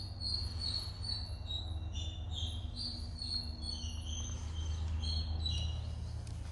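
Small birds chirping in short, high, repeated notes that change pitch, over a steady low rumble.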